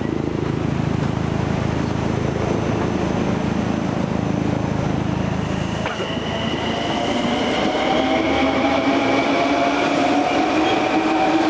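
Long Island Rail Road electric passenger train on the tracks: a steady rumble of wheels on rail. From about halfway through, a whine of several tones rises slowly in pitch and grows louder as the train speeds up.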